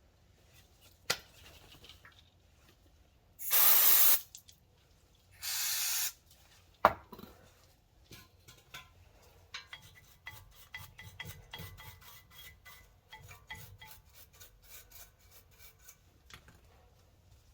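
An aerosol can sprayed in two short bursts, the first about half a second long and the louder, the second a little after. A sharp click follows, then light scraping and small clicks of hands working on the brake pads and caliper parts.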